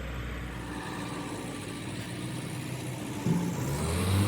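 A steady mechanical hum, with a sudden louder sound about three seconds in and then a louder, steady low motor or engine note near the end.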